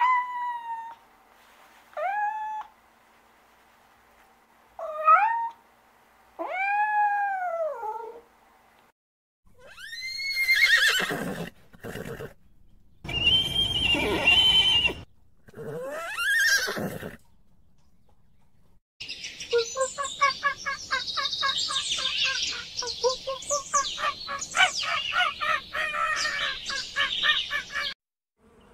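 A tabby cat meowing about four times, each meow rising and then falling in pitch. Then zebras calling in rough, rising calls, followed near the end by a long run of fast, evenly repeated calls from another animal.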